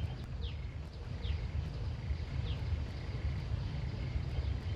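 Outdoor ambience: a steady low rumble with short, falling chirps repeated about once a second, most likely a bird calling.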